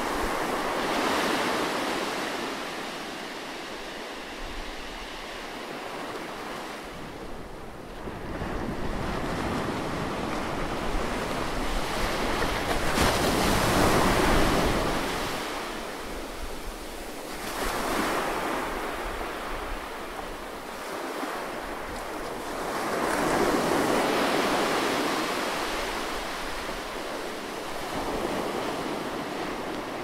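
Ocean surf breaking on a beach: a steady wash of waves that swells and fades again four or five times, the loudest surge about halfway through.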